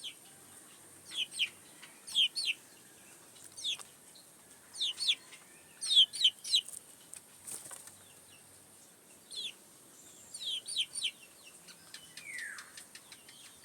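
Chicken calling in short, high chirps, in quick clusters of two to four, with gaps between clusters. About three-quarters of the way through there is a single falling squawk.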